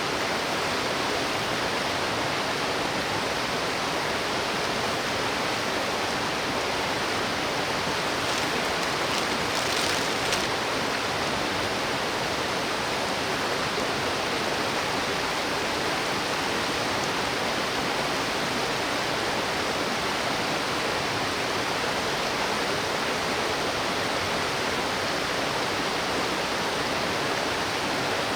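Mountain stream rushing over rocks, a steady, even wash of water noise.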